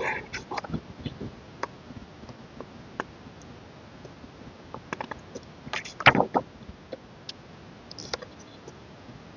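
Hands handling a K-pop album and its contents: scattered light clicks and taps, with denser rustling at the start and a louder cluster about six seconds in.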